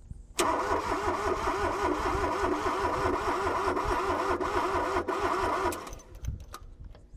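Starter cranking the Yanmar three-cylinder diesel of a Kobelco SK13SR mini excavator, its whine rising and falling with each compression stroke, after the fuel lines have been bled. It kicks in abruptly and stops about six seconds in.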